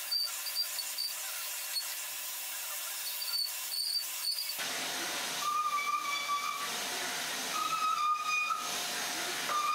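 Gas torch hissing steadily as it chars the wood surface for shou sugi ban, with a faint whistle over the hiss; about halfway through the sound fills out lower and the whistle drops in pitch.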